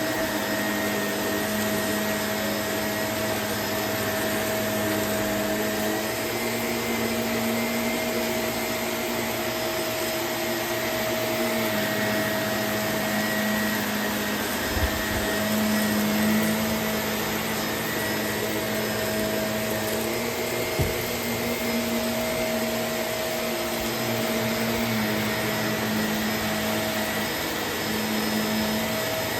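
Vacuum cleaner running steadily, its motor note shifting a little now and then, with two brief knocks about halfway through.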